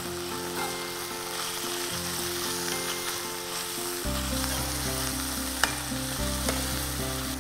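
Minced chicken keema frying in oil in a nonstick pan, sizzling steadily as it is stirred with a steel spoon, with one sharp knock of the spoon about five and a half seconds in. Soft background music with long held low notes plays underneath.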